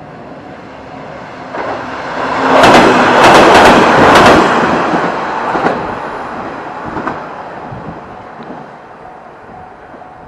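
Two coupled KiHa 120 diesel railcars passing over a level crossing. They are loudest from about two to five seconds in, with a quick run of wheel clacks over the rail joints and a couple more clacks as the rear passes. The crossing's warning bell rings at the start and again near the end.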